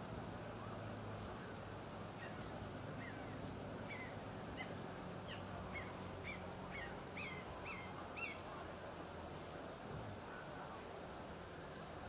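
A bird calling a run of short, repeated notes, about two a second, growing louder and stopping about eight seconds in, over steady low background noise.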